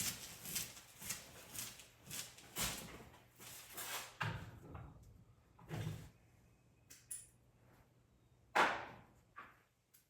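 Irregular knocks and thuds, as of hardware and tools being handled and set down: several light knocks a second at first, then a few heavier thumps a couple of seconds apart.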